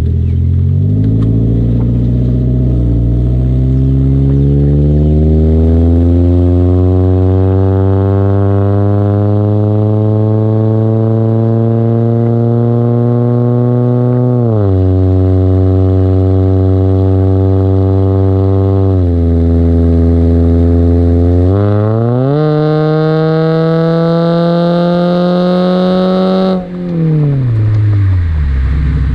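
Chevy Cobalt's 2.2-litre four-cylinder engine through a ZZP longtube header and full 3-inch exhaust, pulling with the revs climbing steadily. The pitch drops sharply twice, as at gear changes, climbs again quickly, then falls away near the end.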